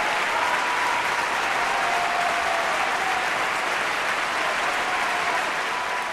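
Remote-control Bell 222 scale helicopter running: a steady rushing hiss with a high, slightly wavering whine over it.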